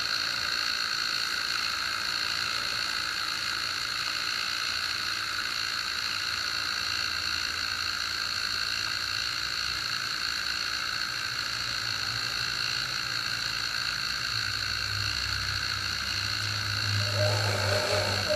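Hair dryer running steadily, blowing heat onto starter wort: a high, even motor whine over fan noise. A lower hum joins near the end.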